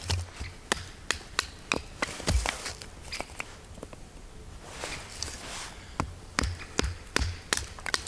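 A knife blade being struck and cut into wood to split and shave kindling: a string of sharp, irregular knocks, some with a dull thud, and a short scraping rasp about five seconds in.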